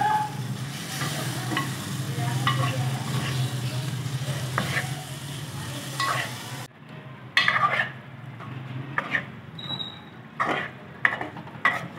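Chicken, tomato and masala sizzling as they fry down in a metal pot, while a metal spoon stirs and scrapes around the pan in regular strokes. About two-thirds of the way through the sizzle cuts off suddenly, leaving the spoon's louder scraping strokes against the pot.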